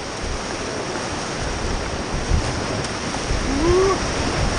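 Rushing white water of river rapids, with low rumbling and knocks from wind and handling on the microphone. A short rising-and-falling call or cry rises briefly above the water about three and a half seconds in.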